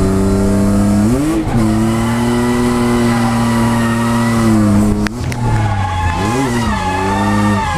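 A Ford Falcon FG drift car's engine running at high revs, the pitch dropping and climbing back several times as the throttle is lifted and reapplied, with tyre squeal in places.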